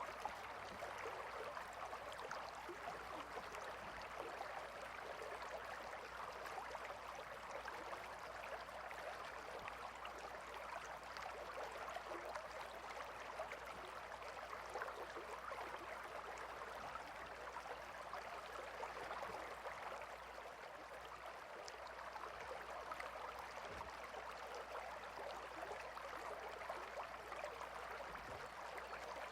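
Gentle river flowing, a steady faint rush of running water.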